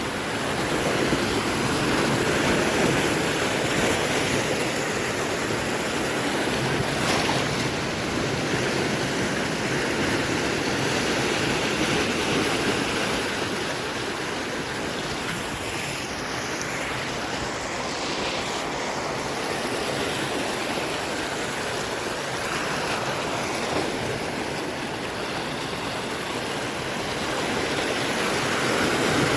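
Sea swell surging and washing against the shore: a continuous rushing roar that rises and falls, swelling louder in the first few seconds and again near the end.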